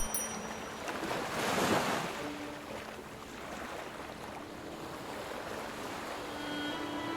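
Ocean surf: waves washing in, with one wave surging to a peak about a second and a half in and then draining away. Faint soft musical tones sound now and then under the water.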